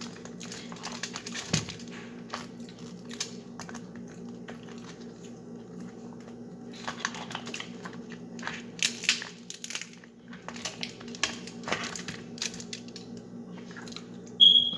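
Crackling and clicking from crab legs being broken open and eaten, coming in short clusters of sharp cracks with pauses between them.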